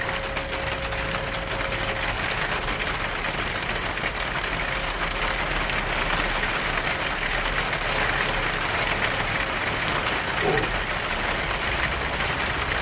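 Heavy rain pouring down steadily on a small shed, a dense even hiss.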